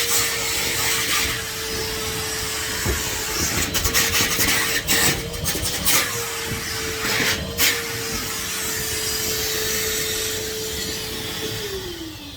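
Henry HVR200 620 W canister vacuum cleaner running with a steady motor whine while its nozzle scrapes and rubs over the stairs in repeated strokes; near the end the motor is switched off and its whine falls away as it winds down.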